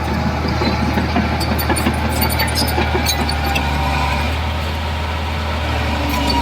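Heavy diesel engine of earthmoving machinery running steadily at a low, even pitch, with scattered light metallic clicks and clatter over it.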